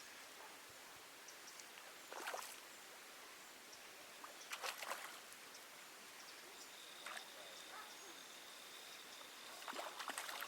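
Quiet outdoor ambience with a faint hiss, broken a few times by short clusters of clicks or rustles, with a faint steady high tone joining in past the middle.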